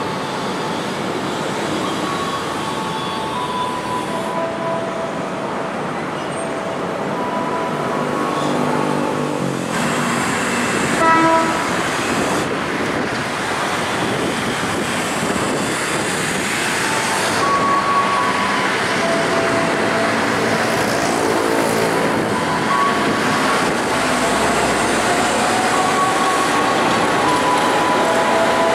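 JR 205 series electric commuter train running through a station, with a steady rumble and rail noise. A short horn toot comes about eleven seconds in, and a rising whine near the end.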